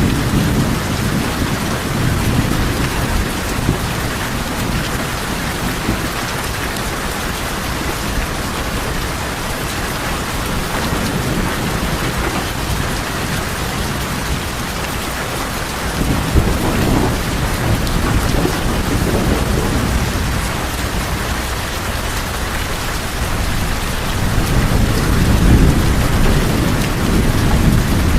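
Steady rain falling on a tin roof, with low rolls of thunder swelling near the start, around the middle and again near the end.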